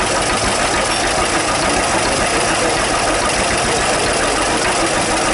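Vintage two-cylinder John Deere tractor engine running steadily at idle.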